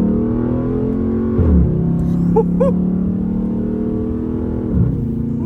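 Dodge muscle car engine idling through an active exhaust whose valves are wired permanently open. It is a steady, deep exhaust note that dips in pitch briefly twice. The open valves stop the exhaust squeak and rattle.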